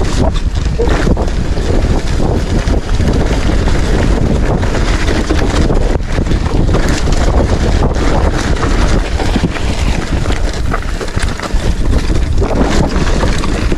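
Loud, continuous wind buffeting the microphone, a rough rumbling noise that swells and dips without letting up.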